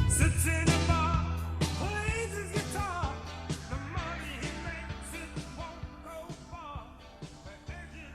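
Rock band's final chord ringing out and fading away, with a few wavering high notes over the decay.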